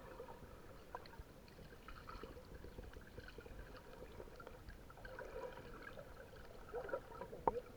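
Faint, muffled sea water sloshing and trickling, heard with the microphone under the water, with a few sharper splashes near the end.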